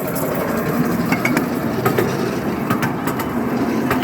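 Miniature park railway train running on its track, wheels clicking irregularly over the rails.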